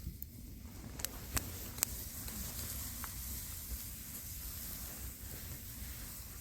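Lamb sizzling on a grill over a wood fire, with a steady hiss and a few sharp crackles from the fire between one and two seconds in.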